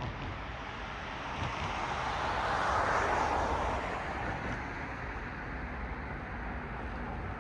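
A car passing on the road: tyre and road noise swells to a peak about three seconds in, then fades, over a steady low traffic rumble.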